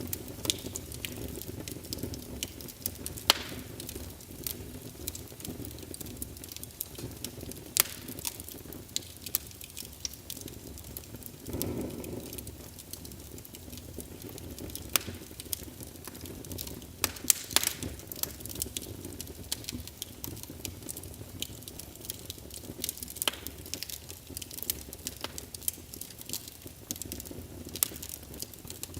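Wood fire in a fireplace crackling, with frequent irregular sharp pops over a steady low rumble of flame. There is a short louder surge of the low flame noise near the middle.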